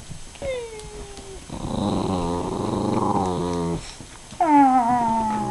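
A small dog growling for about two seconds in the middle, after a short falling whine.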